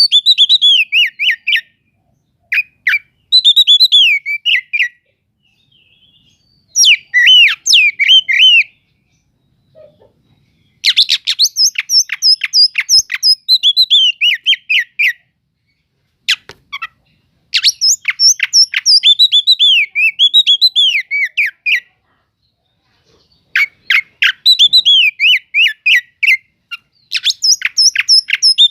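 Oriental magpie-robin (kacer) singing in loud bouts, with gaps of one to two seconds between them. Each bout opens with a fast run of sharp chipping notes and moves into slurred, warbling whistles.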